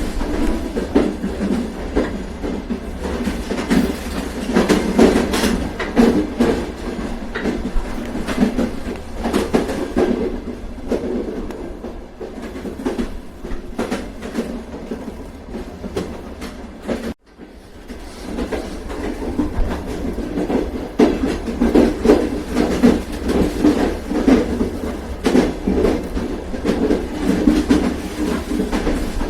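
A passenger train running along the track, its wheels clattering over rail joints with a continuous rattle. The rattle eases in the middle and cuts out for an instant a little past halfway, then builds again.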